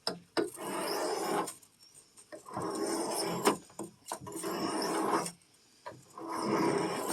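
Knife blade drawn across a sharpening stone in four long scraping strokes with short pauses between them, with light clicks as the blade is repositioned.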